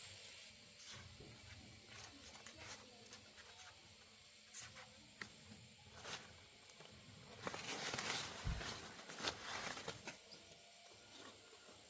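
Scattered rustling and crackling, heaviest for about two seconds just past the middle.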